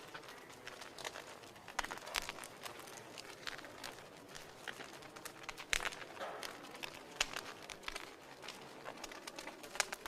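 Wood fire crackling in a fireplace: a steady hiss of burning with irregular snaps and pops, a few louder pops about two seconds in, around six seconds in and near the end.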